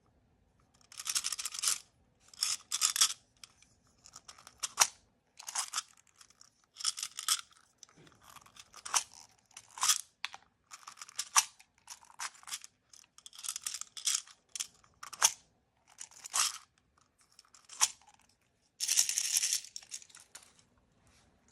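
Plastic blind-bag packaging being torn open and crinkled by hand: a string of short tearing, rustling bursts about a second apart, with a few sharp clicks.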